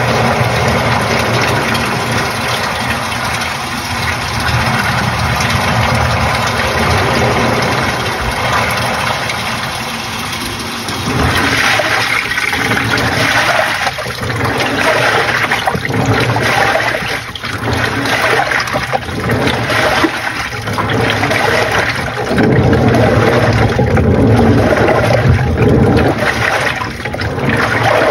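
Panasonic NA-FA80H8 top-loading washing machine running: a steady motor hum, then from about a third of the way in loud, uneven water churning and sloshing in the drum.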